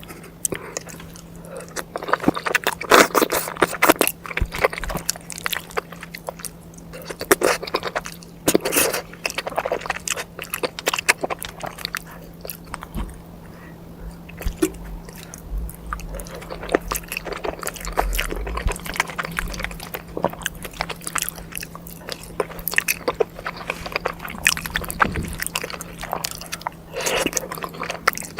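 Close-miked eating: a person chewing and biting food, with many irregular sharp mouth clicks and smacks, over a steady low hum.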